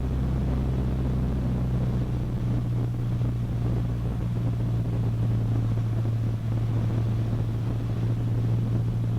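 Cessna 152's four-cylinder Lycoming engine and propeller droning steadily in flight, heard from inside the cockpit; a deeper part of the drone fades about four seconds in.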